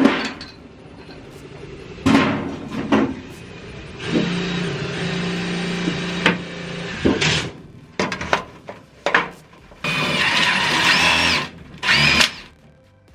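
A power drill running in two runs of about two seconds each, the second higher-pitched with its pitch sliding, among sharp knocks and bangs of ductwork being worked and fitted.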